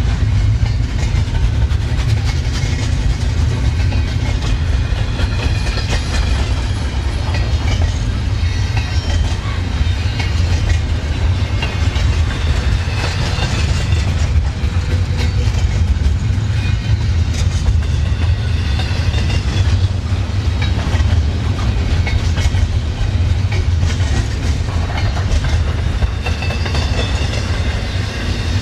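Railway cars rolling steadily past close by: a heavy continuous rumble with the clickety-clack of wheels over the rail, and faint thin wheel squeals coming and going.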